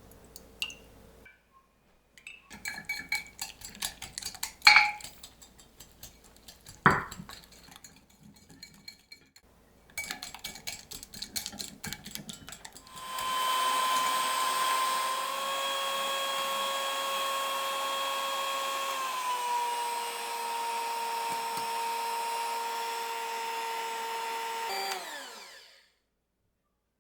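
Clinks and knocks of kitchen utensils and dishes, then an electric kitchen mixer runs steadily for about twelve seconds, drops to a slightly lower speed partway through, and winds down to a stop near the end.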